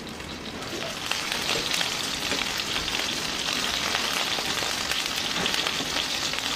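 Chicken meatballs shallow-frying in oil on low heat: a steady sizzle with fine crackling, which grows louder about a second in.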